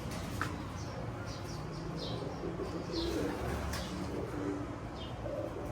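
Domestic racing pigeons cooing in low, repeated notes, with short high chirps from other birds scattered through and a couple of sharp clicks.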